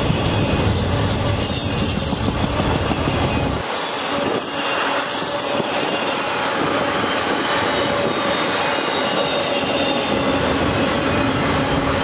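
Double-stack intermodal freight train's well cars rolling past on the rails, a steady rolling noise with a thin wheel squeal over it. A heavy low rumble drops away suddenly about four seconds in.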